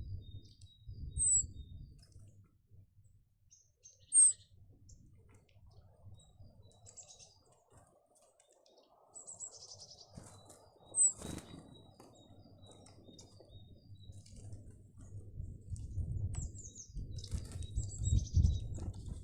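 Small garden birds at a feeder calling with short, high chirps and quick falling notes, with wings fluttering now and then. A low rumble grows louder near the end.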